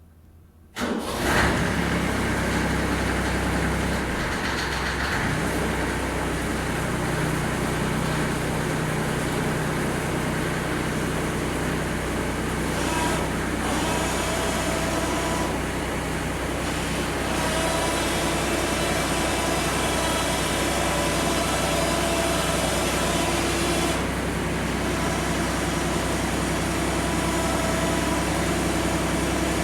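Ford 1210 compact tractor's three-cylinder diesel engine running steadily with the rear PTO-driven snowblower turning, the blower running smoothly after its repairs. The sound comes in abruptly about a second in, and a faint steady whine joins it partway through.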